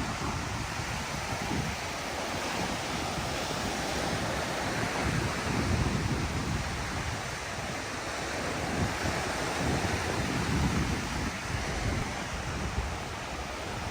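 Surf of ocean waves washing onto a sandy beach, a steady rushing that swells and eases, with wind gusting on the microphone.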